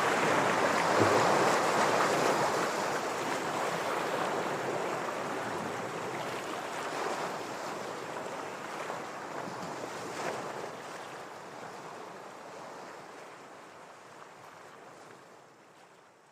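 Ocean waves washing against shore rocks: a steady rushing surf noise that fades out gradually to near silence.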